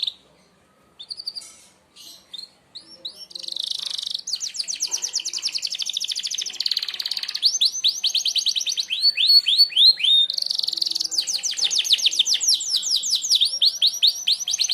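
Merlok canary singing: a few short notes, then long, fast trills of rapidly repeated high notes, broken by slower series of sweeping notes. This is the sharp, rapid-fire 'tembakan' song used as a training recording for other songbirds.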